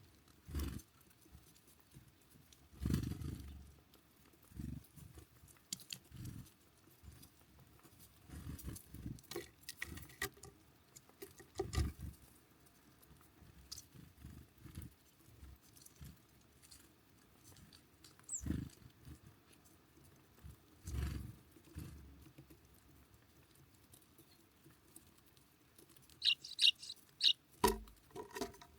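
Birds at a feeder: irregular thumps, knocks and taps as they land, hop and peck at seed, with a brief high chirp about two-thirds of the way through and a quick run of high bird calls near the end.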